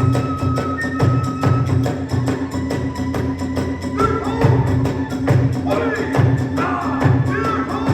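Kagura hayashi band playing a quick, driving rhythm: a big drum beating steadily under rapid clashes of small hand cymbals, while a bamboo transverse flute holds long high notes over them.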